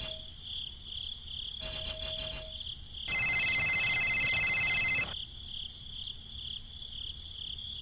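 Steady, pulsing high-pitched chirring, like insects, throughout. About three seconds in, a louder steady tone with several pitches sounds for about two seconds and then cuts off.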